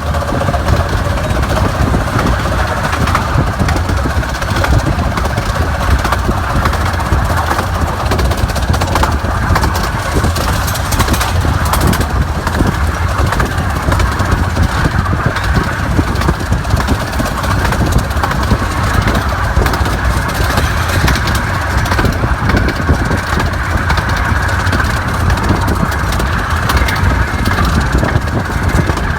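An engine running steadily, with a deep rumble that stays level throughout.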